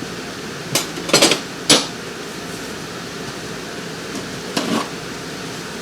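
A pan being got out and handled: a quick cluster of metal clanks and knocks about a second in, and another short pair of knocks near the end, over a steady background hum.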